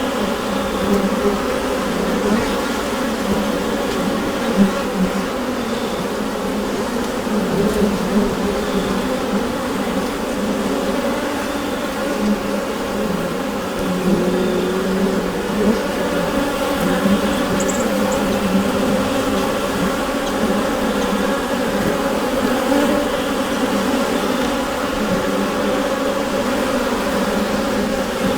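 Honeybee colony humming inside a hive: the steady, dense drone of many bees' wingbeats, with small swells as single bees pass closer.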